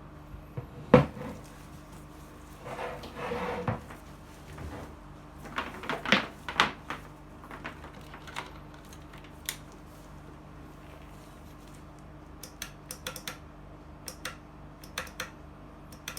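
Hand-work on the chainsaw and its parts: a sharp knock about a second in, a short scrape, scattered clicks, and a run of light ticks near the end. The saw's motor is not running.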